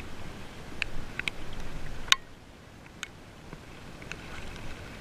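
Rain and wind noise on a GoPro's microphone, with scattered sharp ticks of raindrops striking the camera. The loudest tick comes about two seconds in, and the noise eases after it.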